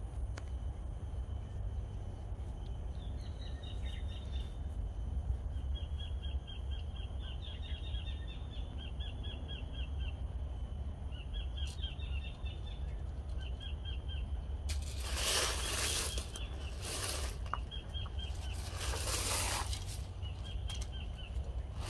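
Outdoor ambience over a steady low rumble. A bird repeats short trills of rapid high chirps, and from about two-thirds of the way in there are several loud bursts of rustling.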